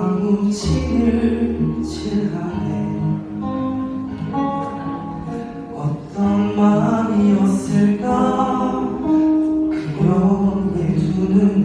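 A man singing a slow Korean Christian (CCM) song over instrumental accompaniment, holding long sustained notes.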